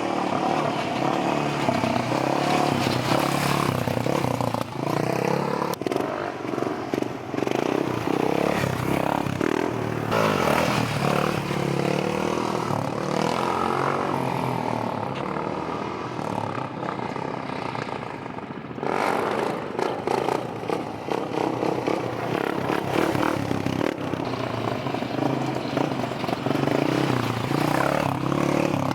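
Motorbike engines running and revving, their pitch rising and falling, with an abrupt change in the sound about two-thirds of the way through.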